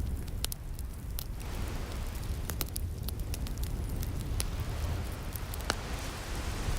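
Wood fire crackling with scattered sharp pops, over the low rumble and hiss of ocean waves washing in, the hiss swelling about a second and a half in.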